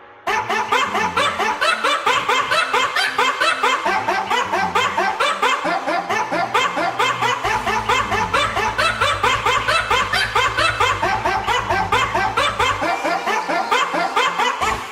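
Fast, evenly paced bursts of laughter, about five a second, set to a beat like a music track. A deep bass comes in about halfway and drops out near the end.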